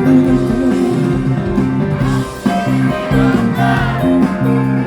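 Live rock band playing, with electric guitar and bass holding stepped notes; the sound drops briefly about two seconds in, then comes back in full.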